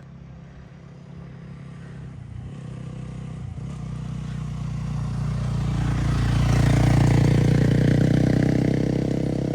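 A motor vehicle's engine approaching, growing steadily louder over about seven seconds and then easing off slightly as it passes close by.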